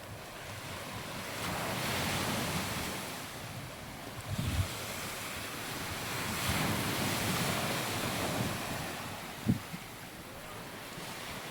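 Sea waves washing up on a sandy beach, the surf swelling twice and easing back, with a few short low thumps of wind buffeting the microphone.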